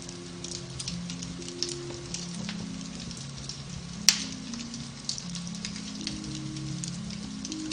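Beech-wood fire in a fireplace crackling, with many small irregular crackles and one sharp, loud pop about four seconds in. Soft, slow piano-based music with held low notes plays underneath.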